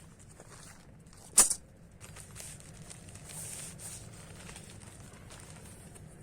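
A single sharp knock about a second and a half in, over faint rustling.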